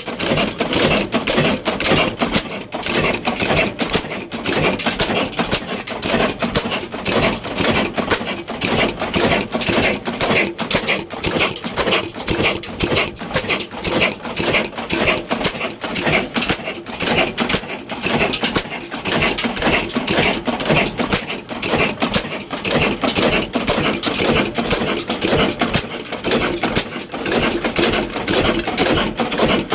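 Old Ruston Hornsby diesel engine running steadily, with a fast, even clatter that keeps the same pace throughout.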